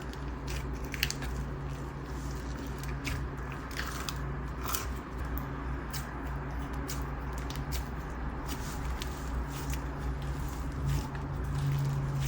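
White glue bingsu slime, packed with small plastic beads, being squeezed and pressed by hand, giving many small irregular crackles and pops.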